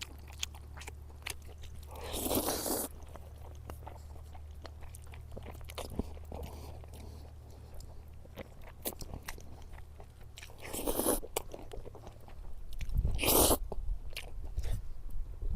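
A person chewing and eating, with many small mouth clicks and three louder rushing bursts, about two, eleven and thirteen seconds in, over a steady low hum.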